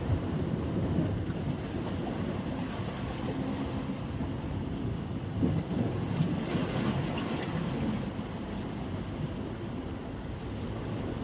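Wind rumbling on the microphone over waves washing onto a sandy beach: a steady, restless noise with no distinct events.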